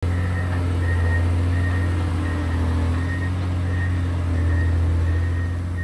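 John Deere 670 motor grader's diesel engine running steadily with a deep hum. A faint high-pitched tone pulses over it a couple of times a second.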